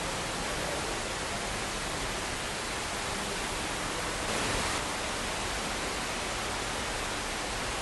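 Steady, even rushing noise that swells slightly for about half a second four and a half seconds in.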